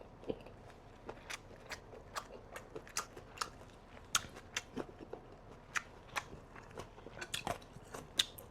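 Close-up chewing of a boiled pork and raw herb wrap: irregular crisp crunches and wet mouth clicks, about two or three a second.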